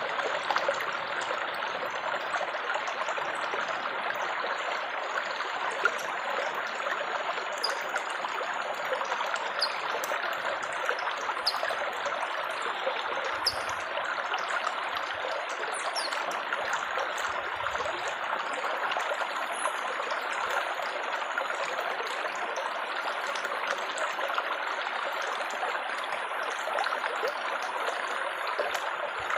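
Water trickling and splashing steadily, a continuous even rush with no change in level.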